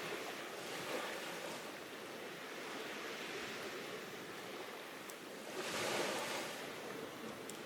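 Sea waves washing ashore in slow swells, the loudest surge about six seconds in, with a couple of faint pops from the crackling wood fire.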